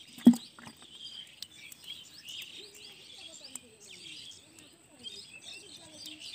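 Small birds chirping steadily in the background, with one sharp thump about a quarter second in.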